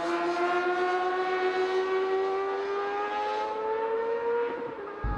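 Racing motorcycle engine held at high revs, its pitch rising slowly as the bike accelerates, then dropping off near the end, followed by a brief low thump.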